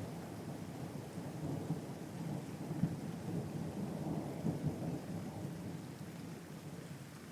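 A long low rumble of thunder that swells in the middle and fades away near the end, over steady rain.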